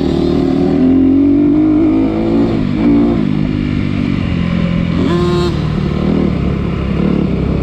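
Off-road vehicle engine running along a rutted dirt trail, its pitch rising and falling as the throttle is opened and eased off, with a sharp rev about five seconds in.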